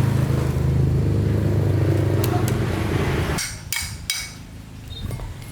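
Small petrol engine running steadily, then cut off abruptly a little over halfway through, followed by a few sharp metallic clicks and knocks.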